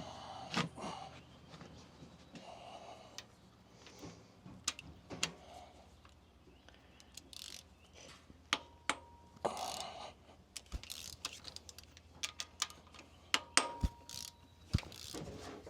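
Socket ratchet clicking and metal clinks as valve cover fasteners are undone on a truck diesel engine, with a few clinks that ring briefly.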